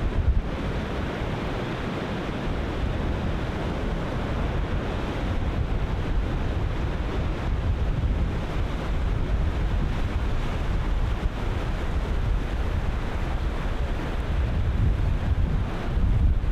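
Ocean surf breaking continuously with a steady wash of water, overlaid by strong wind buffeting the microphone with a heavy low rumble.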